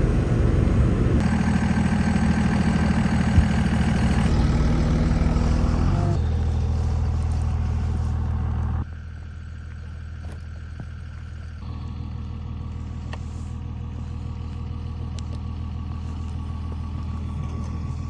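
A vehicle engine running steadily, with a low even drone. About nine seconds in the sound drops suddenly to a quieter steady engine hum.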